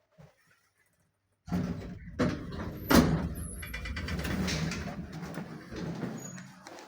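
Automatic sliding doors of an MLM passenger lift moving, starting suddenly about a second and a half in, with a sharp knock about three seconds in.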